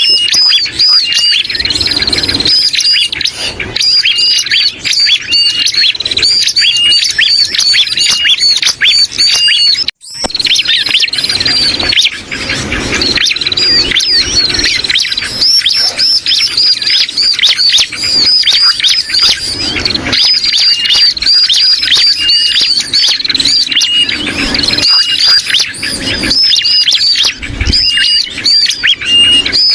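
Bird-lure recording of bar-winged prinia calls mixed with noisy, distressed sooty-headed bulbul calls: dense, rapidly repeated high chirping. The sound drops out briefly about ten seconds in, then resumes.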